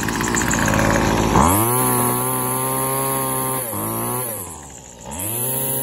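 WeedEater SST25 25cc two-stroke string trimmer engine, warmed up after a cold start. It runs at a rough idle, then is revved up about a second and a half in and held for about two seconds. A short dip and a second brief rev follow, it drops back, and it is revved again near the end.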